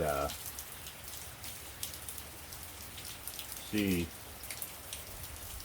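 Rain falling outside, with irregular drops ticking on a hard surface.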